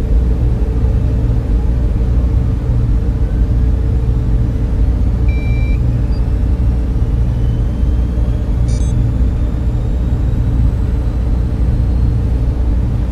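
Server room equipment running: a steady, loud, low drone of cooling fans with a constant hum, and a short electronic beep about five and a half seconds in.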